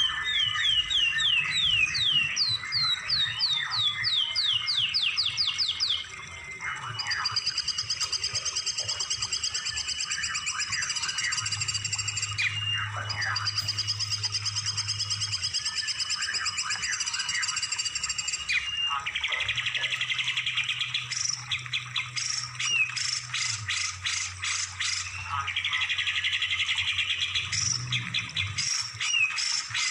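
Songbird song from a masteran training recording. It opens with a quick series of sweeping chirps, changes about a third of the way in to a continuous high trill, and ends with bursts of fast repeated notes.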